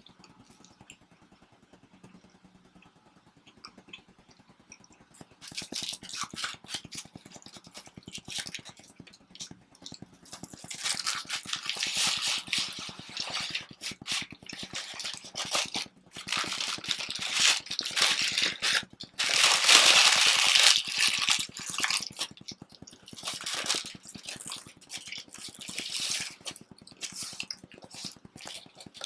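Close-miked eating of homemade pizza: chewing and crunching in irregular crackly bursts, starting about five seconds in, loudest a little past the middle.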